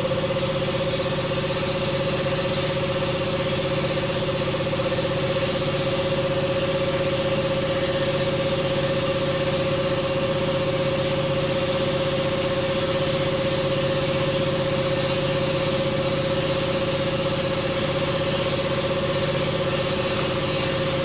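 Steady machine hum of a running motor, with a constant mid-pitched tone over an even whirring noise and no change in speed.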